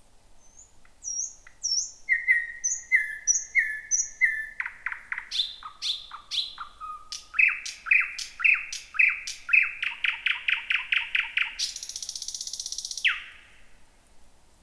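Thrush nightingale singing one long song phrase. It opens with a few soft high notes, moves into repeated whistled notes and quick series of clipped notes, and ends about thirteen seconds in with a dry rattle and one falling note.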